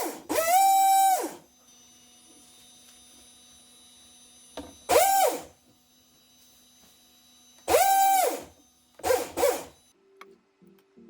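Brushless motor driving an RC boat's water-jet unit, spun up in four short throttle bursts. Each time it rises to a steady high whine with a hiss, holds briefly, then winds down, with a faint hum in the pauses.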